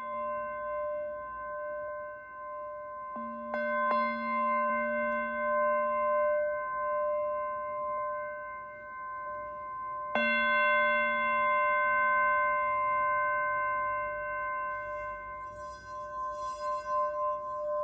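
Singing bowls struck and left ringing: several steady pitches that sound together and die away slowly. They are struck again about three seconds in and hardest about ten seconds in, with a light scratchy noise near the end.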